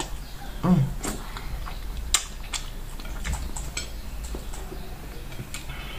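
Mukbang eating sounds of rice being eaten by hand: scattered sharp mouth clicks and smacks from chewing, with a brief hum less than a second in.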